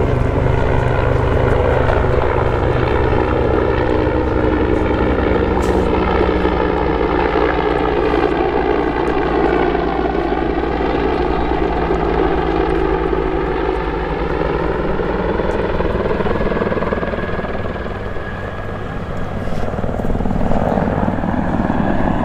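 RCAF CH-146 Griffon helicopter (a Bell 412 with twin turboshaft engines) flying close by: steady fast rotor chop under a turbine whine. The pitch of the whine sags through the middle and rises again. The sound fades a little and swells back near the end.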